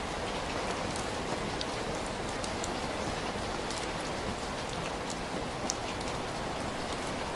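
Steady rain falling, an even rushing hiss with scattered light ticks of individual drops.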